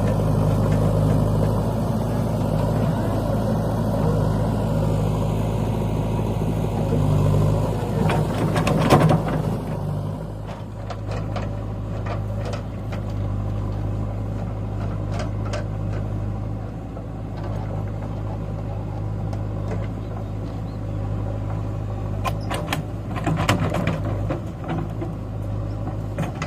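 Heavy diesel engine running steadily; it is louder for about the first ten seconds, then settles lower. Scattered clanks and knocks come over it around the middle and again near the end.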